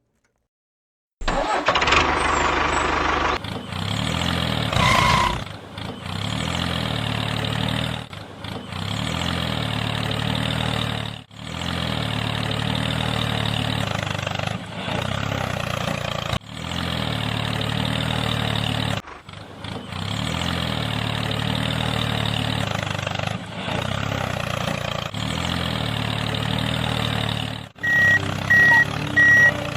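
An engine-like motor running steadily, broken by brief drops every few seconds. Near the end, a high electronic beep repeats rapidly.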